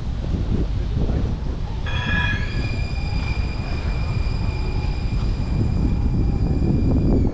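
A high-pitched metallic squeal, several tones together that rise slightly as it starts about two seconds in and then hold steady until near the end, over the rumble of wind on the microphone.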